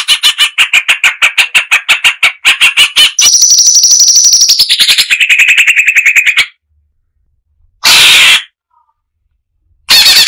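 Crested finchbill (cucak cungkok) singing a fast, rapid-fire series of sharp notes, then a higher pulsed trill that drops in pitch before breaking off. After a gap there is one short loud burst, and the rapid notes start again near the end.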